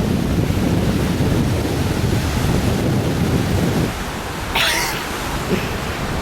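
Wind buffeting the microphone over the wash of ocean surf, a choppy low rumble that eases off about four seconds in.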